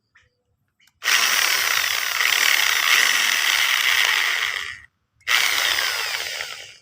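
Electric drill running in two bursts, about four seconds and then a second and a half with a short stop between, boring a hole through the middle of a part.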